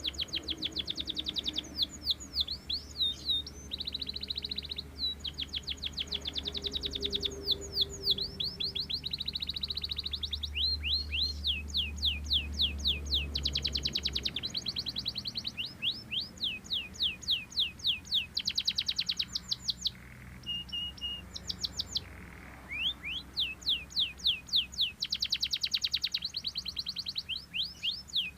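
Belgian canary singing a long, nearly continuous song of fast trills and rolling phrases that change every second or two, with a short break about two-thirds of the way through.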